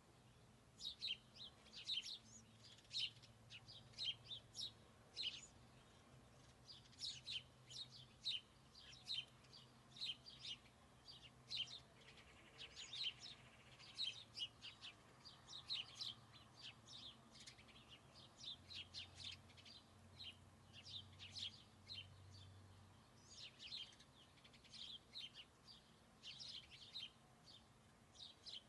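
Small birds chirping outdoors: many short, high chirps in quick runs throughout, over a faint steady low hum.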